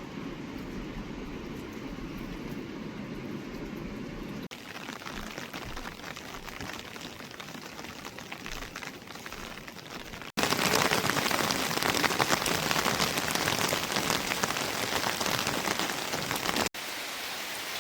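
Steady rain falling, heard in several cut-together takes. It starts as a lower rushing noise, turns into a lighter hiss after about four seconds, and becomes a much louder, dense patter of drops a little past the middle. Near the end it drops back to a softer hiss.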